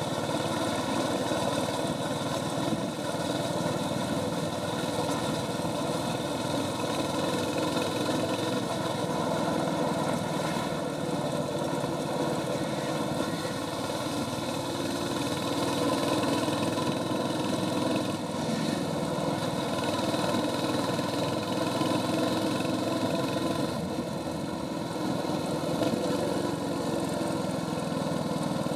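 Royal Enfield Hunter 350's single-cylinder engine running through its stock exhaust under way, held at a steady, even pitch.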